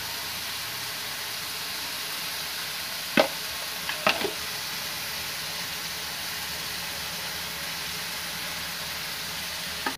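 Onions, tomatoes and minced meat with spices sizzling steadily in a steel karahi. Two sharp clicks come about three and four seconds in.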